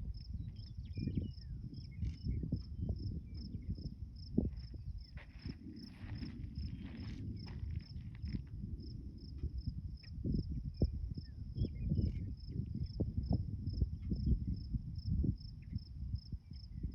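Wind buffeting the microphone in uneven gusts, with an insect chirping steadily in rapid, even pulses at a high pitch.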